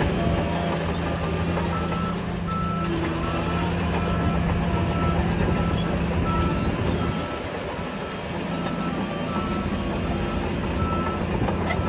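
Heavy earthmoving machine's diesel engine running steadily under a reversing alarm that beeps at a steady pace, a bit more than once a second, starting about two seconds in. The engine note dips briefly a little past the middle.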